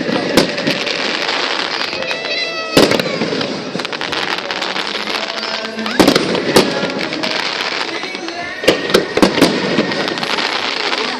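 Fireworks going off: single sharp bangs about three seconds apart, then a quick run of several reports about nine seconds in, over a steady background of crowd voices.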